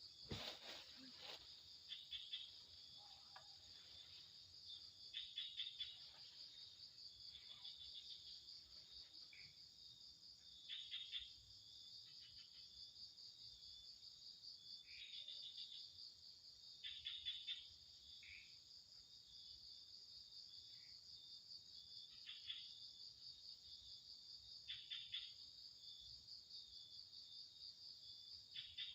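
Faint night insect chorus: crickets keep up a steady high-pitched trill, with short pulsed chirps from another caller every two to three seconds. A brief faint knock comes just after the start.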